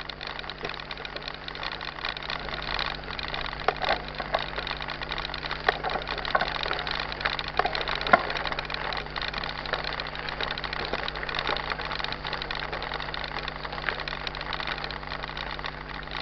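Mountain bike rattling and clattering over a rough trail, with sharp clicks and knocks over a steady hum.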